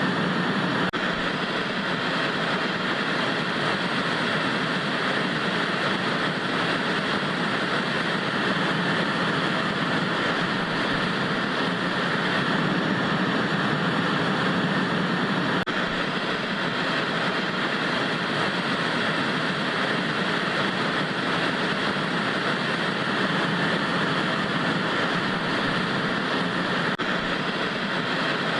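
Vintage TV static: a steady, even hiss of white noise with no change in level or pitch.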